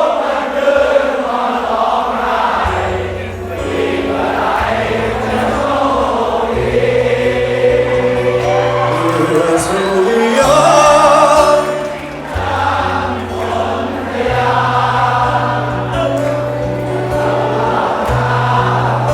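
A song performed live with many voices singing together over held bass notes that change every few seconds.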